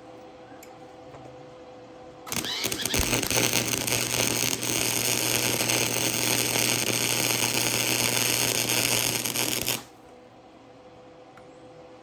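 Arc welder laying a short weld bead, a little more than a tack: a sudden start about two seconds in, a steady crackling hiss with a low hum for about seven and a half seconds, then a sudden stop.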